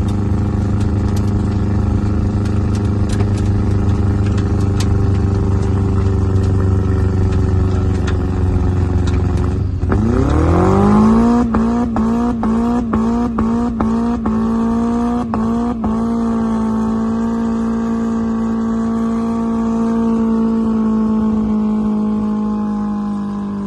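Turbocharged Honda B18B1 1.8-litre four-cylinder engine with rod knock, run at steady revs and then revved up sharply about ten seconds in and held high. For several seconds after the rev-up it cuts out briefly about twice a second, then runs on at high revs and drops back slightly near the end.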